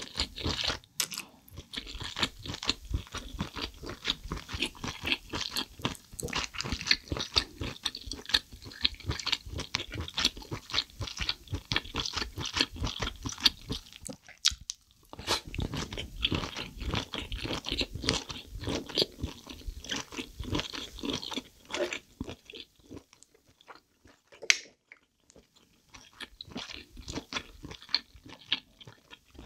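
Close-miked chewing of soy-sauce marinated crab: rapid wet crunches and smacks, pausing briefly about halfway through and quieting a few seconds before the end except for one sharp click.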